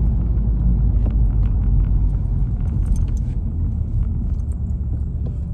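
Volkswagen GTI's turbocharged four-cylinder running through an AWE Touring stainless-steel catback exhaust: a steady low rumble while driving, with a few faint ticks.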